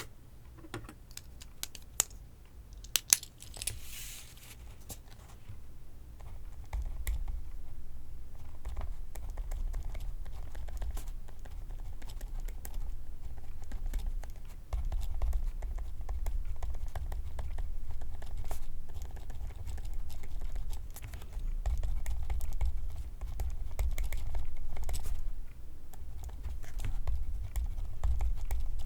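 Pencil writing on paper, the lead scratching along in a steady run of short strokes with a low rub through the desk. The first few seconds are quieter, with a few sharp taps and a brief rustle before the writing settles in.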